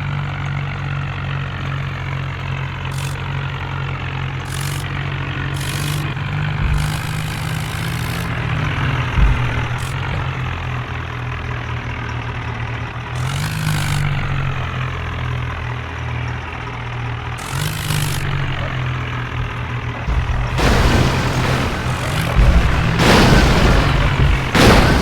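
Tractor engine running at a steady pace. In the last few seconds, louder rough noise comes in over it.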